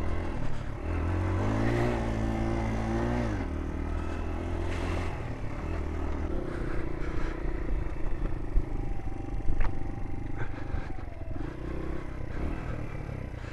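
Small 50cc motorbike engine running under the rider, revving up about a second in and dropping back after a couple of seconds, with rattling and scraping as the bike rides over rough, rocky ground.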